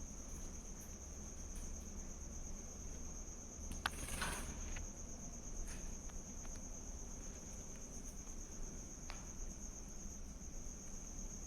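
A cricket trilling steadily at a high pitch, with a sharp click and a short rustle about four seconds in.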